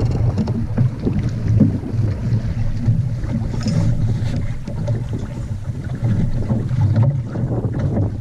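Wind buffeting the microphone aboard a small sailing dinghy: a loud, gusting low rumble.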